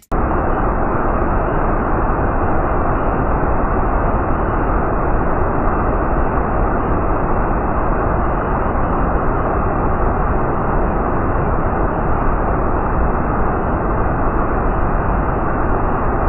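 Rushing floodwater of the Arno river, played back slowed down, as a steady, even, dull rushing noise with nothing above a low ceiling.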